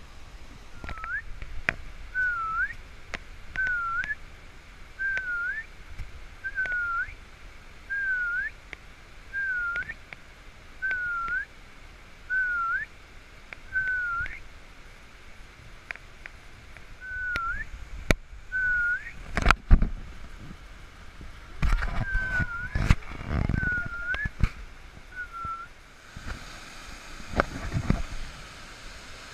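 A bird repeating a short whistled call about every second and a half, some fifteen times: each note dips slightly, then sweeps sharply up. A few loud knocks and rumbles break in partway through.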